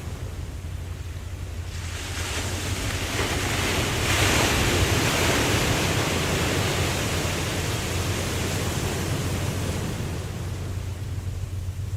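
Ocean waves on a beach: a wave swells and breaks about four seconds in, its wash fading over the next several seconds, over a steady low surf rumble.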